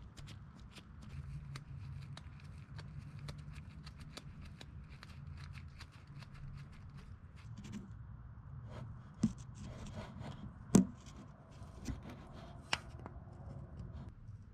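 Hands working with tools and parts: a steady run of small clicks and rustles, with four sharper knocks in the second half, the loudest about eleven seconds in.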